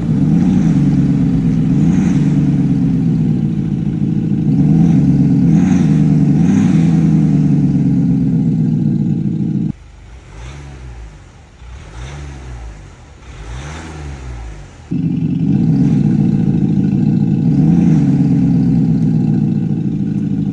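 iXsound active exhaust loudspeakers on a Foton Tunland pickup playing a synthetic V8 exhaust note, loud and rising and falling with each blip of the throttle. About halfway through the sound cuts off suddenly for about five seconds, leaving the pickup's own engine revving three times much more quietly, then the V8 sound cuts back in.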